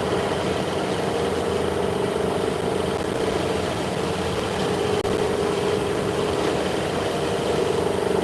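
Steady machine hum from workshop machinery running continuously, with a very brief dropout about five seconds in.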